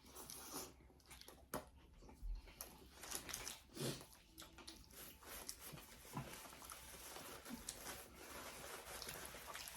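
Faint eating sounds: someone biting into and chewing a saucy sub sandwich, with scattered small clicks and rustles.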